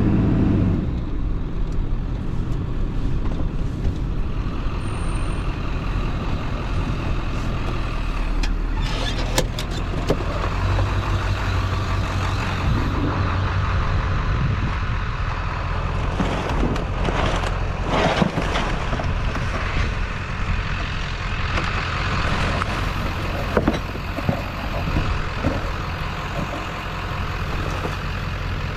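A vehicle's engine running steadily, with a few short clanks and rattles over it, clustered around the middle and again later on.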